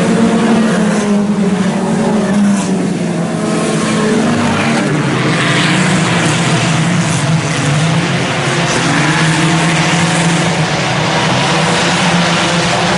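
A pack of IMCA Sport Compact race cars running laps on a dirt oval, their engines droning steadily with the pitch rising and falling as they pass, loud throughout.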